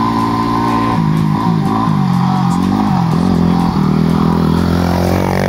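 Dual-sport motorcycle engine running continuously, its pitch rising and falling as the rider works the throttle.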